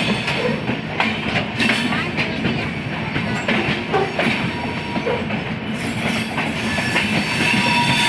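Indian Railways passenger coaches running past at close range, a steady rumble with wheels clacking over rail joints now and then. A thin wheel squeal starts near the end.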